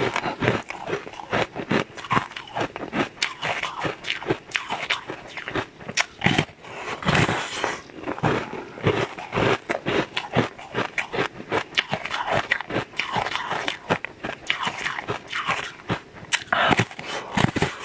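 Close-up crunching and chewing of mouthfuls of a pink, flower-shaped frozen treat: a dense, irregular run of sharp, crackly crunches.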